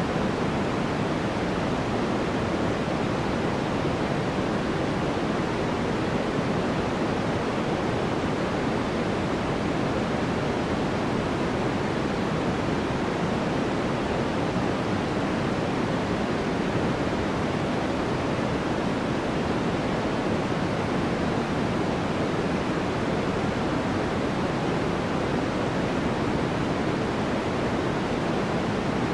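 Steady synthetic noise used as a sleep sound: an even, unchanging hiss that is weighted toward the lower-middle pitches, with no events.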